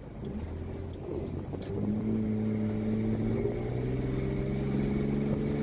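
1997 Lexus GS300's 2JZ-GE straight-six with its secondary muffler deleted, pulling under acceleration: a drony exhaust note that grows louder about two seconds in and rises slowly in pitch.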